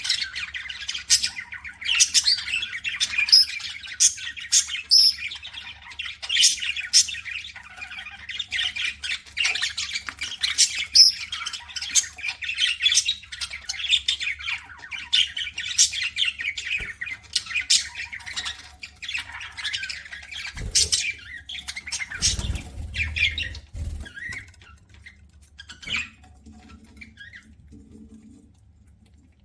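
Budgerigars chattering and chirping in a rapid, dense stream of short calls and squawks, thinning to a few scattered chirps in the last several seconds. A brief low rumble a little over two-thirds of the way through.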